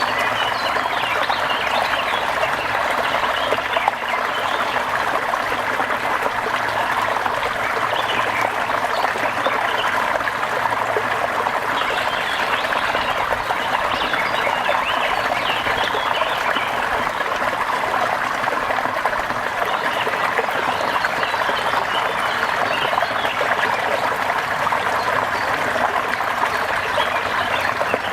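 Steady rain falling: an even, unbroken rush of water with small scattered higher flecks of sound throughout.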